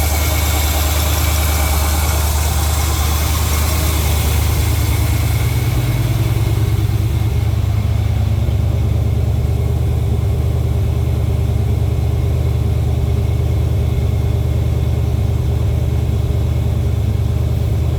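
LS V8 in a Porsche 951 (944 Turbo) idling steadily at its raised cold-start warm-up idle in freezing weather, still running rich before the engine reaches temperature. About six seconds in, the engine note shifts slightly and the hiss above it fades.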